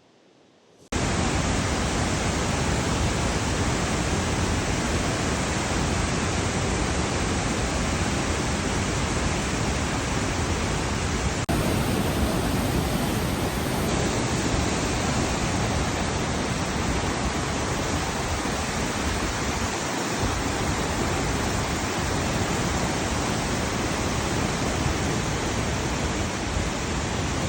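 Steady, loud rush of the Devil's Throat, the largest fall of Iguazu Falls, cutting in suddenly about a second in.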